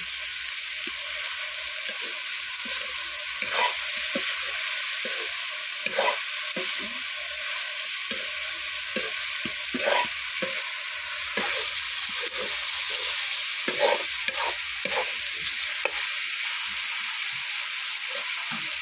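Broiler chicken pieces sizzling steadily in an iron kadai. A metal spatula stirs and scrapes against the pan at irregular intervals, every second or so.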